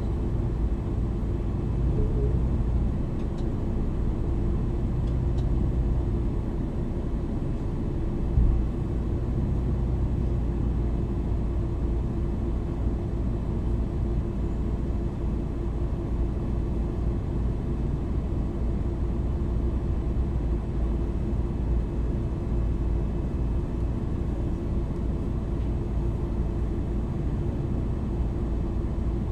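MAN NL 323 city bus driving, heard from inside the passenger cabin: a steady low drone of the engine and ZF Ecolife automatic gearbox, with road rumble. There is a short thump about eight seconds in.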